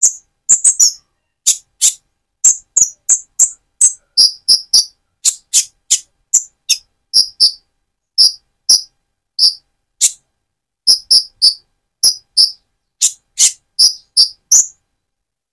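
Purple-throated sunbird (Leptocoma sperata) singing in a quick, irregular run of short, very high-pitched chirps, about two a second, with silent gaps between the notes.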